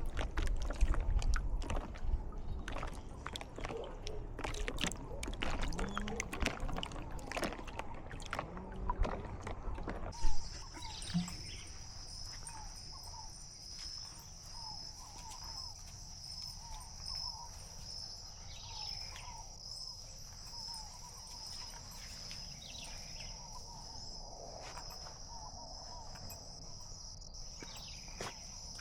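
For about the first ten seconds, irregular rustling and clicking over a low rumble; then the sound changes suddenly to a steady high-pitched insect trill, like crickets, pulsing slightly, with faint short chirps beneath it.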